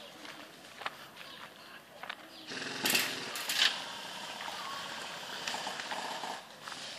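Airsoft BB guns firing: a short rapid burst about two and a half seconds in, with two louder sharp cracks, among scattered clicks.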